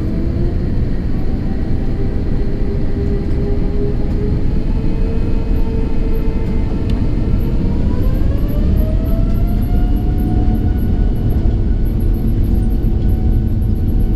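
Airbus A330-900neo's Rolls-Royce Trent 7000 engines heard inside the cabin: a loud, steady rumble, with a whine that rises in pitch about eight seconds in as the engines spool up to higher thrust.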